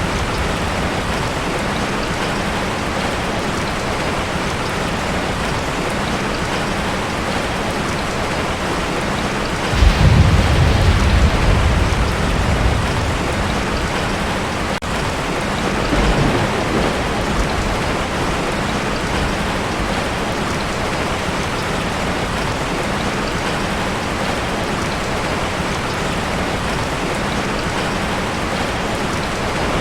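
Heavy rain falling steadily on a tin roof. About ten seconds in, a sudden clap of thunder rumbles for a few seconds, and a fainter rumble follows a few seconds later.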